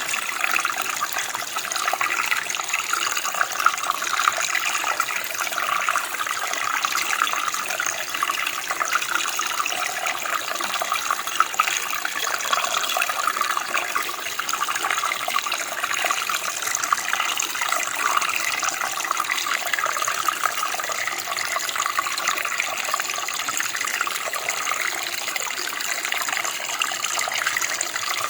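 Running water flowing steadily: an even, splashing rush with little low rumble.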